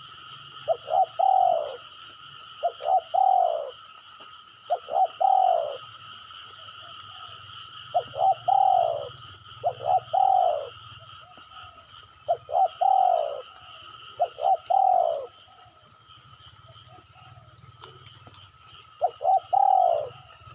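Spotted dove cooing, a lure call for wild spotted doves: eight short phrases, each a couple of quick notes ending in a longer falling coo, coming every one to three seconds with longer pauses about six and sixteen seconds in. A steady high-pitched hum runs behind.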